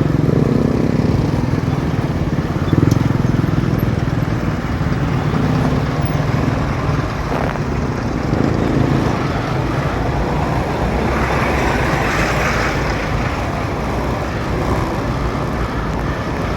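Motorcycle running on the move, with steady road noise and a brief rush of hiss about two-thirds of the way through.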